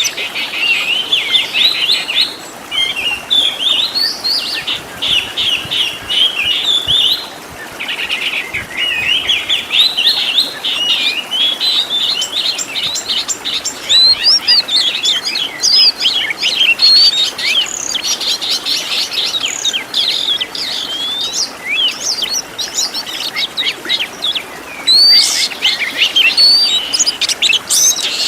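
Oriental magpie-robin (kacer) singing a fast, varied song of quick chirps, trills and whistled notes packed with mimicked phrases of other birds. It runs almost without a break, pausing only briefly a few times.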